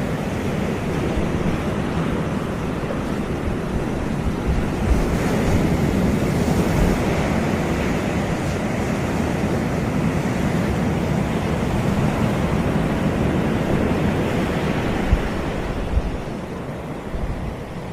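Ocean surf breaking and washing up the beach, swelling and easing, with wind buffeting the microphone in a couple of low thumps near the end as the surf eases.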